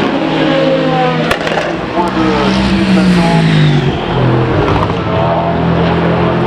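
Race cars running past at speed, several engine notes overlapping, one falling in pitch as it goes by, with a sharp crack a little over a second in.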